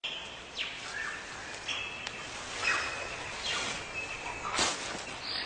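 Several birds calling in a forest: held whistled notes and sharp downward-sweeping calls, the strongest about four and a half seconds in, over a steady hiss.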